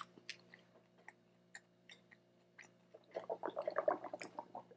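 Close-miked chewing of a mouthful of taco, with soft wet mouth clicks. The chewing grows denser over the last second and a half.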